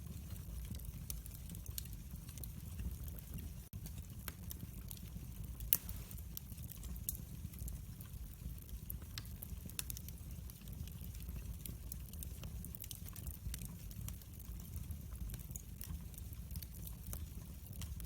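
Wood fire crackling in a fireplace: a steady low rumble of flames with scattered small pops and snaps, one sharper pop about six seconds in.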